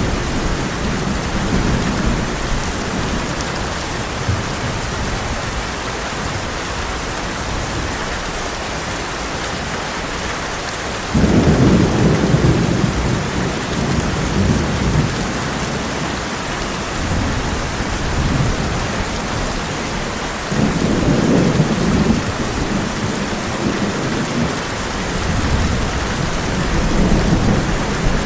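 Heavy rain drumming steadily on a tin roof, with thunder rumbling low. A loud roll starts suddenly about eleven seconds in, another about twenty seconds in, and a softer one builds near the end.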